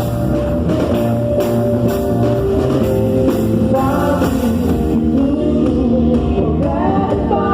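Live gospel worship band playing a song, with drum kit, guitar and a sung melody. The drum beat stops about five seconds in, leaving held chords under the voice.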